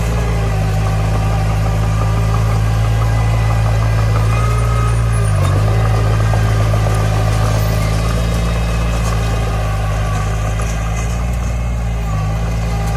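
Diesel engine of heavy earthmoving machinery running steadily, with a brief dip in its note about halfway through.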